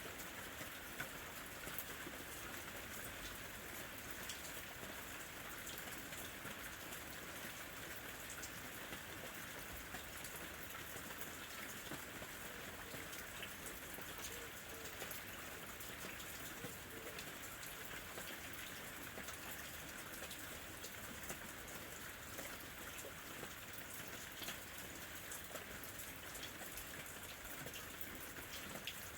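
Steady rain falling, with many individual drops ticking sharply over a constant hiss.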